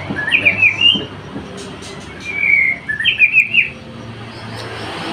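Pet kingfisher calling in two bouts. Each bout is a held note followed by a quick run of short chirps, the first at the start and the second a little over two seconds in.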